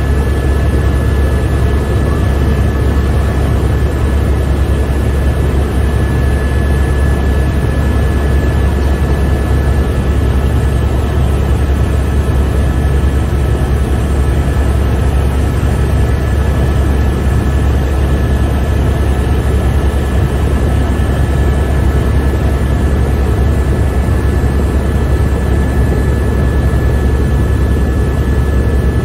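Helicopter in cruise flight heard from inside the cabin: a loud, steady low rotor drone with a constant high whine over it.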